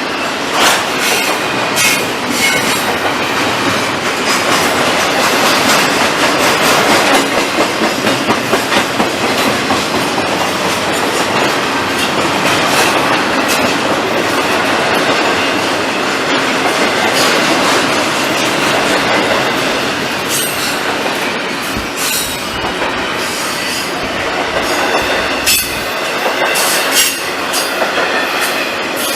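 Freight train cars rolling steadily past close by, their wheels clacking over rail joints with metallic rattling throughout.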